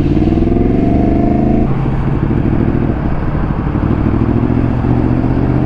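Yamaha FZ-10's inline-four engine pulling away, rising in pitch, with a gear change about one and a half seconds in, then running on under load.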